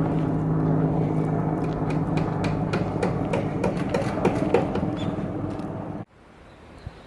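A steady motor drone, slowly fading, with a scatter of sharp clicks from about two to five seconds in. It cuts off suddenly about six seconds in, leaving a quieter outdoor background.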